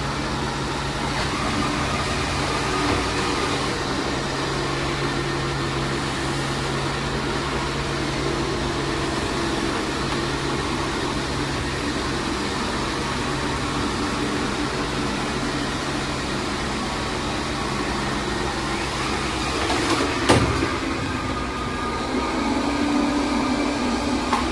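Xiaomi Mi Robot Vacuum-Mop Essential running, a steady motor and suction-fan hum. A single sharp knock comes about twenty seconds in.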